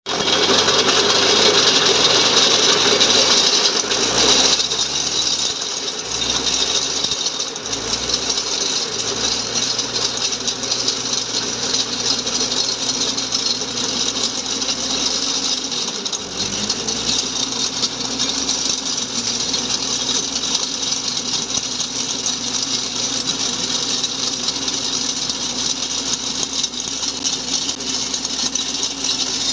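Mini tractor engine running steadily, powering a post hole digger, with a rattling mechanical clatter. It is louder and rougher for about the first four seconds, then settles, and the engine speed rises about sixteen seconds in.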